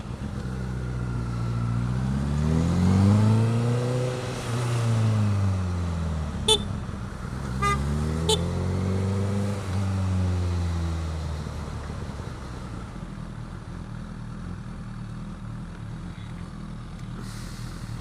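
Vehicle engine revving up and dropping back twice, with three short horn toots in the middle. It then settles to a steadier, quieter hum.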